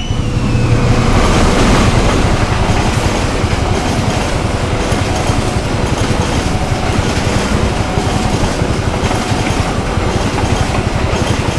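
A passenger train's carriages passing close by: a loud, steady rush with the wheels clacking over the rail joints, loudest in the first couple of seconds. A short falling whine at the very start.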